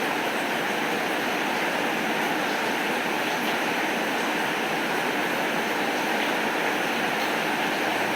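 Steady rain falling: an even, unbroken hiss with a few faint scattered drop ticks.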